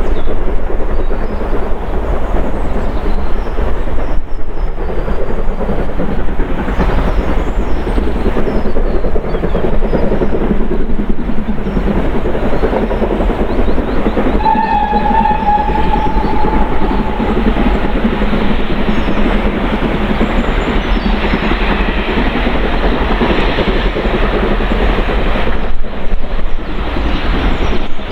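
Steam locomotive and its train passing, running steadily, with one whistle blast lasting about three seconds about halfway through.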